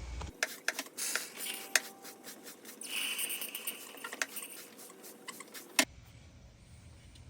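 Light metal clinks, taps and scraping of engine parts being handled, ending abruptly about six seconds in, followed by a faint low hum.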